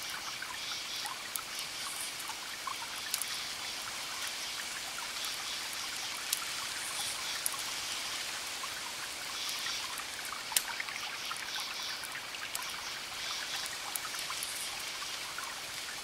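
Wood fire crackling: sharp pops and snaps scattered irregularly over a steady hiss.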